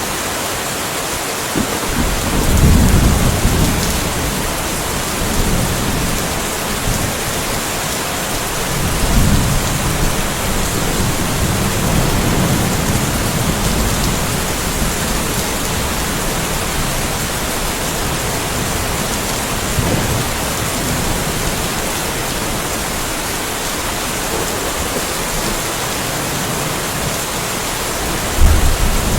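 Steady rain falling, with thunder rumbling in low rolls: one about two seconds in and a longer one from about nine to fourteen seconds. A sudden, louder clap of thunder comes near the end.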